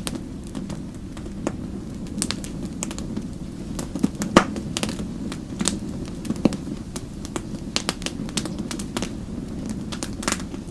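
Wood fire crackling: irregular sharp pops and snaps over a steady low rush of burning flames, the loudest pop about four seconds in.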